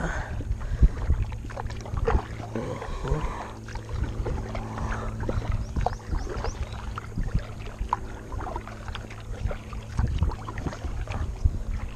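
Kayak being paddled: irregular paddle splashes and light knocks against the hull, over a steady low rumble.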